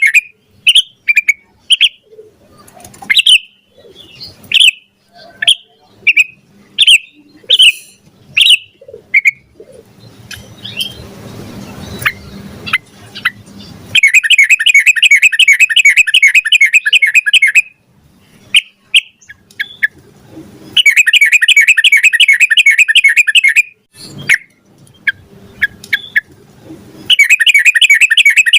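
Yellow-vented bulbul (trucukan) singing. Short separate chirps come through the first ten seconds or so. From about halfway, three long, fast trills of about three seconds each follow, with a few chirps between them.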